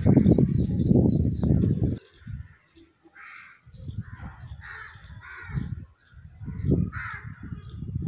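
Birds calling: a quick run of about six high chirps in the first second and a half, then several harsh, noisy calls spread through the rest. A loud low rumble lies under the first two seconds, with shorter low thuds later.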